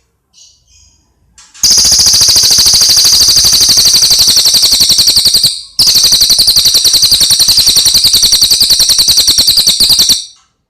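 A cage bird giving two long, very loud, fast rattling trills of about four seconds each, separated by a brief break, after a few faint chirps.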